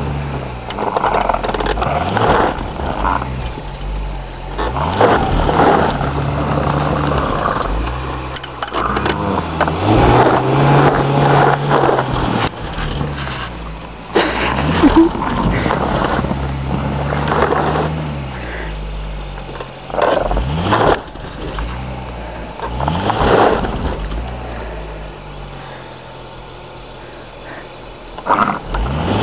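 Car engine revving up and falling back again and again, a car stuck in deep snow that is being driven hard to get free.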